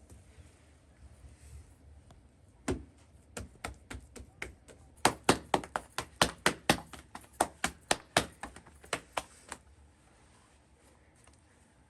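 A run of some two dozen sharp knocks, about four a second at their busiest, starting about three seconds in and stopping near ten seconds.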